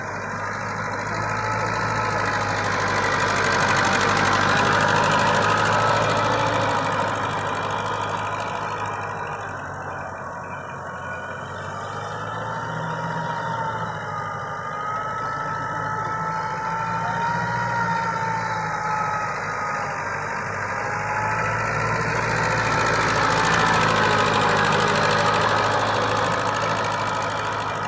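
TAFE tractor's diesel engine running under load while tilling a dry field, growing louder and fading away twice.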